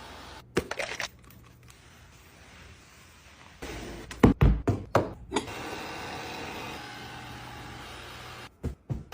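A series of knocks and thunks in a small room. The loudest cluster comes about four to five and a half seconds in, with a steady background noise between the knocks.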